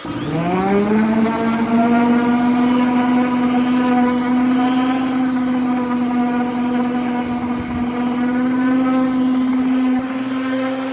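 Electric power-tool motor switching on and spinning up, its whine rising for about a second, then running at a steady pitch.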